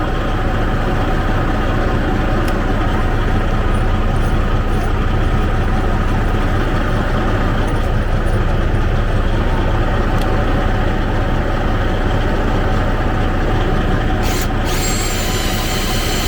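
Diesel engine of a 2004 Freightliner Columbia semi truck idling steadily after the starter repair, running at operating temperature. A short sharp noise about fourteen seconds in, then a thin high whine joins near the end.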